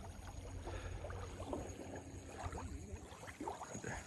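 Water lapping and splashing in small, irregular slaps, over a steady low rumble.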